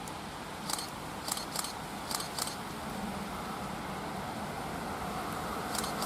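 A train approaching on the line: a growing rumble over a steady hiss, with a few pairs of sharp ticks in the first half.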